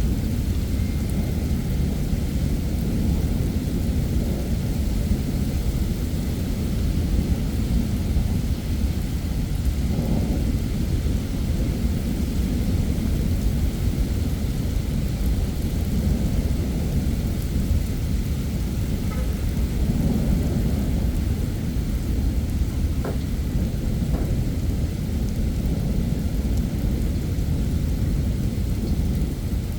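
Heavy summer thunderstorm: a steady downpour of rain with low rumbling thunder that swells and fades.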